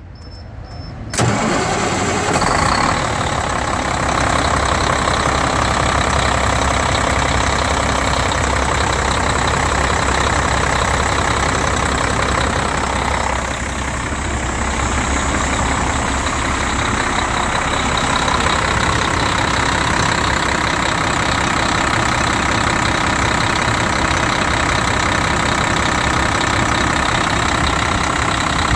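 Cummins ISM 370 inline-six diesel engine in a 2002 International 2574 truck starting up, loudening suddenly as it catches about a second in, then running steadily at idle.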